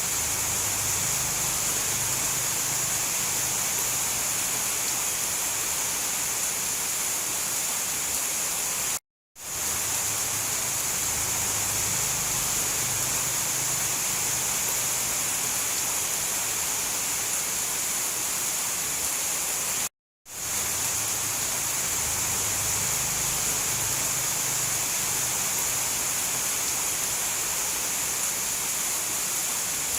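Steady, even rain noise, strongest in the high treble. It cuts out to silence for a moment twice, about 9 and 20 seconds in, and fades back up each time.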